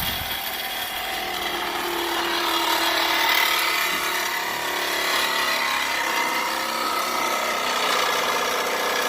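Sawzall reciprocating saw running steadily while cutting, a continuous rasping buzz with a faint motor whine.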